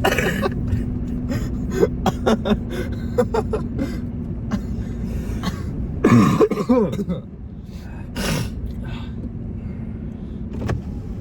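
Car idling, heard from inside the cabin: a steady low engine rumble with a constant hum, under short vocal sounds like coughs and throat clearing and a brief voice burst about six seconds in.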